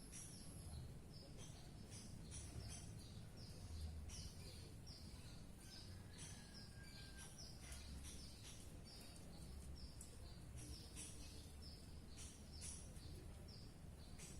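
A green leafbird (cucak ijo) singing faintly: a long run of short, falling high chips, about two to three a second, over a low steady background hum.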